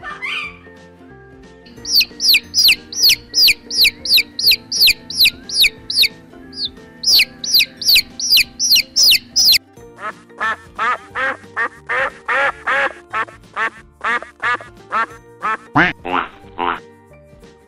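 Quail chicks peeping in a fast run of high, falling chirps, about three a second, with a short break midway. About ten seconds in, Canada geese take over, honking in quick repeated calls. Background music plays underneath.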